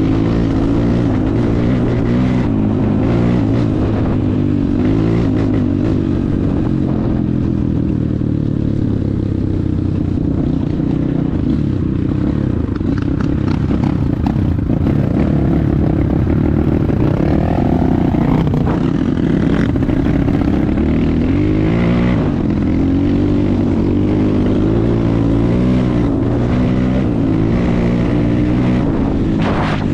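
250 cc enduro motorcycle engine running under changing throttle, its pitch rising and falling, with scattered short knocks.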